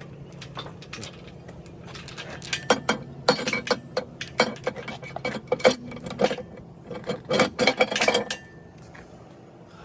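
Metal parts and tools being handled: a quick run of sharp metallic clanks and clinks, some with a short ring, from about two and a half seconds in until about eight seconds.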